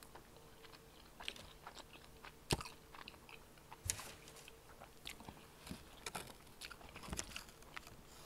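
Close-up chewing and biting of crispy fried chicken wings: scattered soft crunches and wet mouth clicks, with two louder crunches about two and a half and four seconds in.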